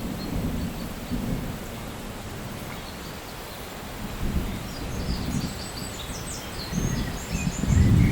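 Rolling thunder rumbling low and unevenly over steady rain, swelling louder near the end. A few faint short high chirps in the second half.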